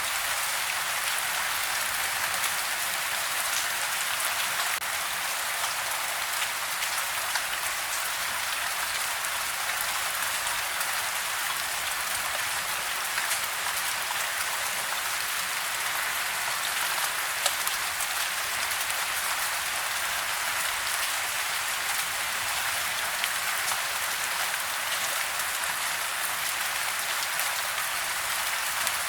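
Steady soft rain: an even hiss sprinkled with fine drop ticks, with no change in strength.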